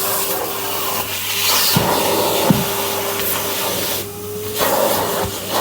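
Vacuum cleaner running steadily, its brush nozzle rubbing along the floor, with a couple of sharp knocks about two seconds in as it meets a piece of debris too big for the tool, and a brief dip in the suction noise a little later.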